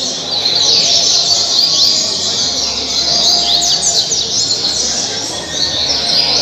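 Double-collared seedeater (coleiro) singing its 'caribe' song: fast phrases of quick, high, sliding notes, one near the start and another about three seconds in.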